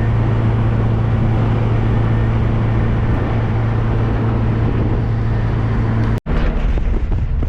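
1275cc MG Midget's four-cylinder engine running at a steady cruise, with wind and road noise rushing over the open-top car. The sound cuts out for an instant about six seconds in, then comes back at a different engine pitch.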